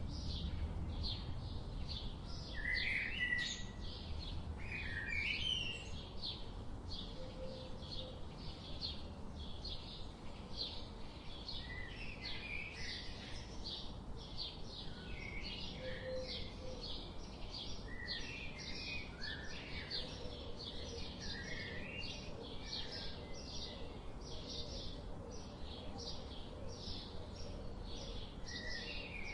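Several songbirds chirping. One keeps up a fast series of short, high chirps, about two to three a second, while others break in with brief call phrases, over a low steady rumble.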